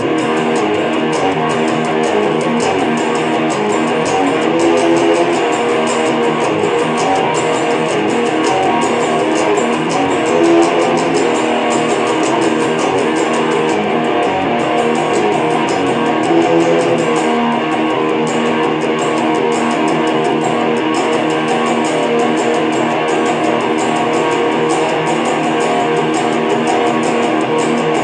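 Improvised guitar music, played continuously with dense plucked and strummed notes and no pauses.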